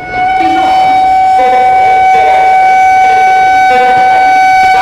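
Train horn held in one long, steady, single-pitched blast that starts abruptly, with people talking faintly underneath.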